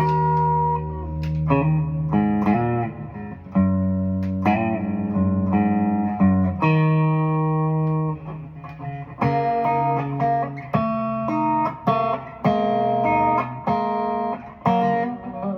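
Guitar music: plucked notes and chords, each ringing on for a second or so before the next.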